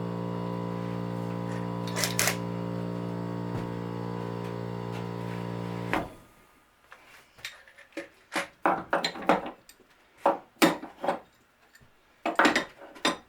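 A steady hum that cuts off suddenly about six seconds in, followed by a string of knocks and clatters from clamps and wood being handled.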